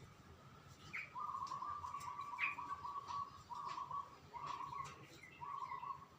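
A songbird giving a rapid rattling trill at one steady pitch for about two seconds, followed by three shorter trills, with a few sharp higher chips in between.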